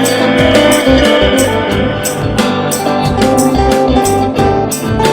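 Instrumental stretch of a live band playing: electric guitar over bass and drums keeping a steady beat, with no vocals.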